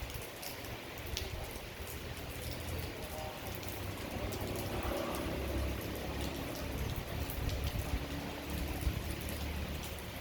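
Steady rain falling, with many individual drops ticking sharply and a low rumble underneath.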